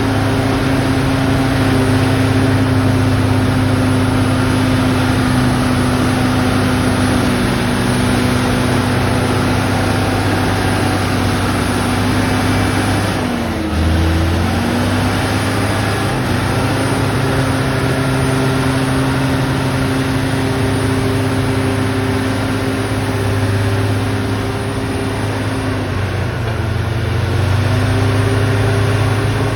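Zoomlion bulldozer's diesel engine running steadily as the machine works. Its pitch dips and recovers about halfway through, and again near the end.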